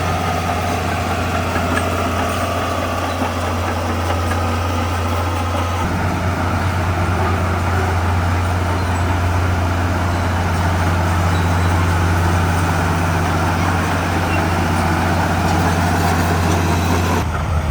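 Heavy diesel engine of earthmoving machinery running steadily, with a deep low hum. The engine note shifts about six seconds in.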